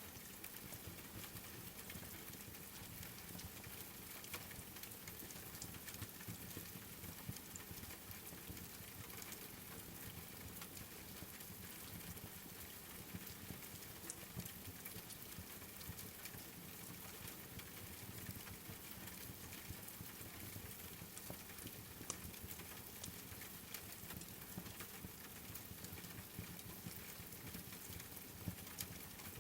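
Steady rain with the scattered small pops and crackles of a wood fire burning in a fireplace.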